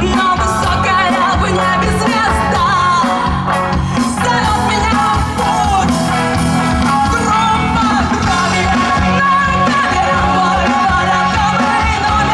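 Live rock band playing a song: a singer's melody over bass and drums, loud and continuous.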